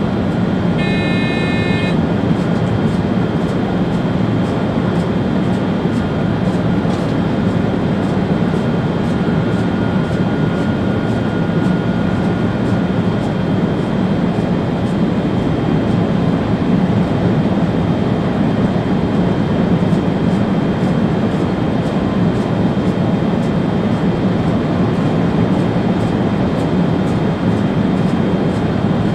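Steady running noise of a Railjet high-speed train heard in the driver's cab, with faint regular ticks. A short electronic beep sounds about a second in.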